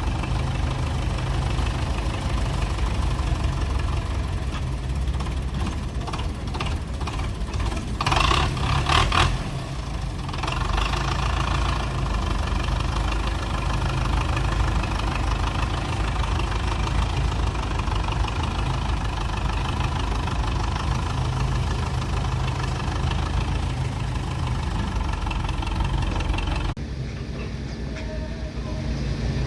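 Belarus tractor's diesel engine running steadily, with a louder noisy stretch of about a second and a half some eight seconds in. The sound changes abruptly near the end.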